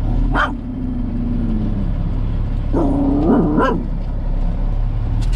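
A corgi barks sharply, whines in a long falling tone, then gives a longer yelping bark about three seconds in, over the steady low rumble of the truck's diesel engine in the cab.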